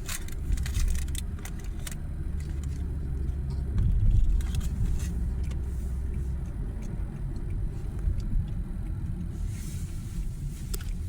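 A motor vehicle's engine running, a steady low rumble with a low hum that stops about six and a half seconds in, and a few light clicks.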